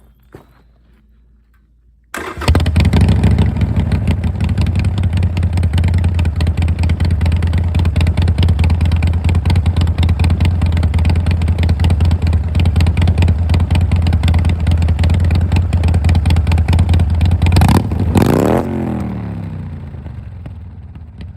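Harley-Davidson Sportster Iron 883's air-cooled V-twin starting about two seconds in and running loud and steady through Bassani straight-through slip-on mufflers. Near the end there is a knock as the phone recording it is blown over, and the engine note drops in pitch and grows quieter.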